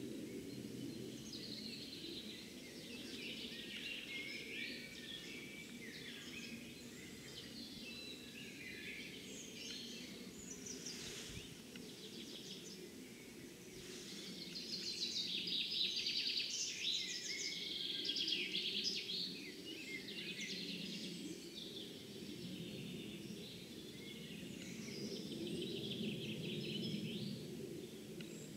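Several songbirds singing and chirping in overlapping trills, busiest in the middle of the stretch, over a steady low outdoor background noise.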